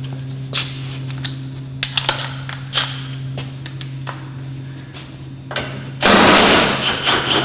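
Scattered sharp metal clanks and knocks of hand work on a car, then a loud rattling clatter about six seconds in, over a steady low electrical hum.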